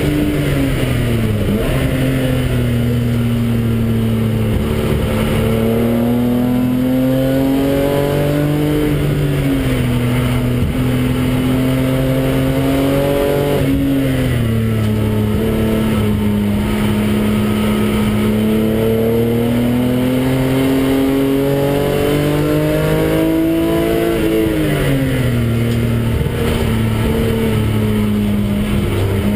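Car engine heard from inside the cabin while lapping a race track, its pitch climbing slowly under throttle and dropping sharply about four times as the driver changes gear or lifts for a corner.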